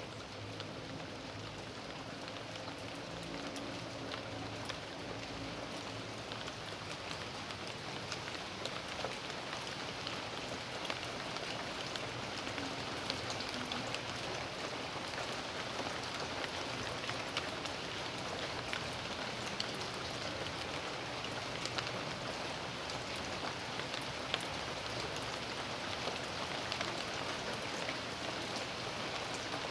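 Steady rain falling: a constant hiss dotted with the sharp ticks of single drops, slowly growing a little louder.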